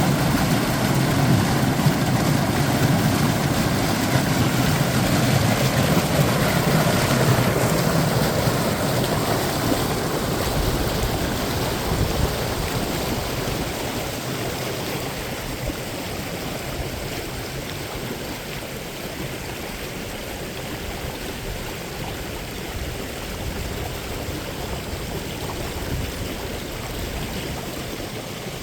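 Rushing water of a waterfall: a steady, dense splashing noise. It is loudest for the first several seconds and then gradually grows quieter.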